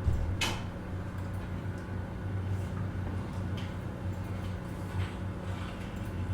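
Office room ambience: a steady low hum under scattered small clicks and knocks, the loudest a sharp clack about half a second in.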